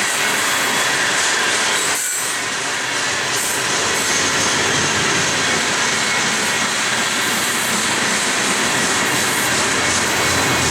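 Coal train cars rolling past at close range: a steady rush of steel wheels on rail, with faint high wheel squeal.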